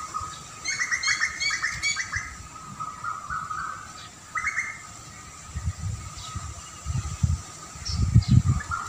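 Small birds chirping in quick bursts of rapid notes about a second in and again midway, over a steady high-pitched tone. Low rumbling thumps build up in the second half, loudest near the end.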